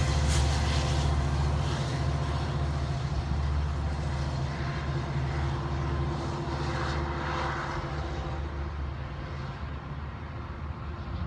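Diesel locomotive hauling a commuter train past, its engine a steady low drone with rumbling wheel and rail noise, fading away as the train moves off.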